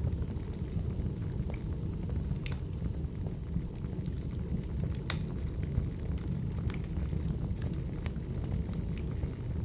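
Wood fire burning, with a steady low rumble of flame and scattered sharp crackles and pops of firewood, the loudest pop about five seconds in.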